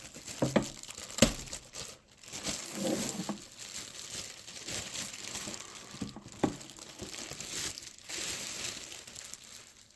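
Plastic packaging crinkling and rustling as it is handled and pulled off, with a few sharp clicks and taps, one about a second in and another past the six-second mark.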